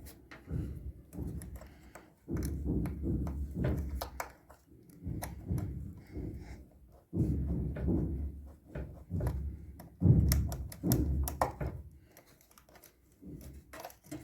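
Irregular dull thunks and knocks, with sharp clicks, of hand work on washing machine parts during a bearing replacement.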